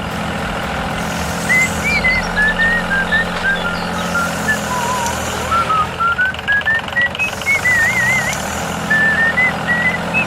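Construction-vehicle engine running steadily with a low hum, with birds chirping over it throughout.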